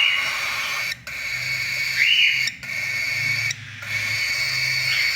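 Cockatiel chick calling steadily, with short rising-and-falling chirps at the start, about two seconds in and near the end, and a few brief breaks in the call.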